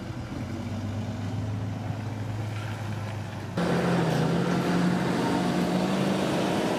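Jeep Grand Cherokee engine running steadily. About three and a half seconds in there is an abrupt cut to a louder engine sound whose pitch wavers slightly as the SUV drives off.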